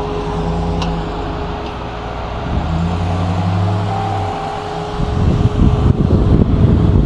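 Off-road vehicle's engine running as it is driven slowly down off an obstacle, the engine note strengthening for a couple of seconds midway. About five seconds in, a louder rough rumble takes over.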